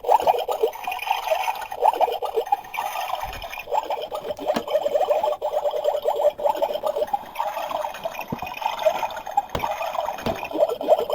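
Small-scale water sounds: liquid trickling and bubbling in a continuous flutter of tiny pulses, with a few light clicks from small utensils.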